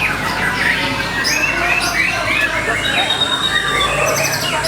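White-rumped shama (murai batu) singing a rapid, varied song. Slurred whistles and short chirps run into fast trills of quickly repeated notes.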